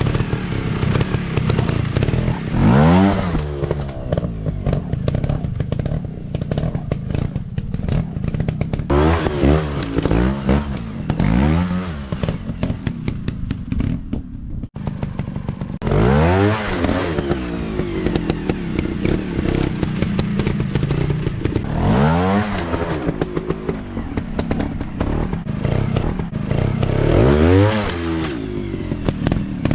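Dirt bike engine revving up and dropping back again and again, about seven times, with idling between the revs and some clattering.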